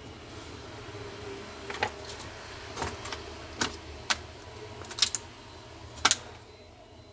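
Sharp clicks and taps of small hard parts and tools being handled during a laptop repair, about six of them at uneven intervals, over a low steady hum.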